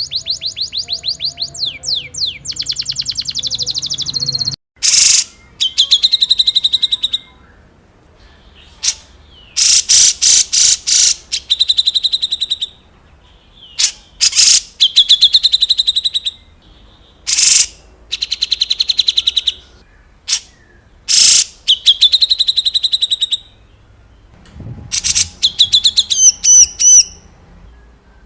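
Songbird giving harsh, fast rattling trills, the 'tembak kasar' type of call: rapid runs of repeated sharp notes in bursts of one to two seconds with short pauses between them.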